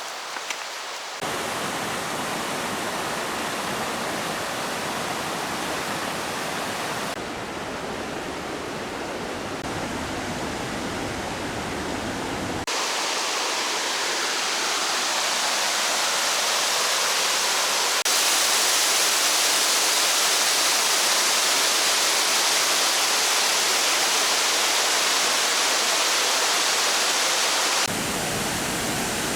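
Rushing water of a river and waterfall: a steady whitewater rush that jumps in loudness and tone several times, as if from spot to spot, and is fullest and loudest in the second half.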